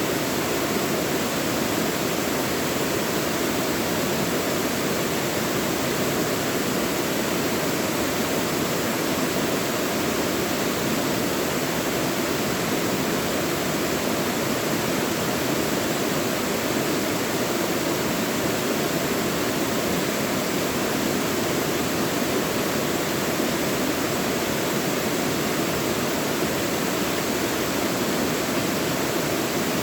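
Mountain stream rushing over rocks in a valley: a steady, even rush of water with no change.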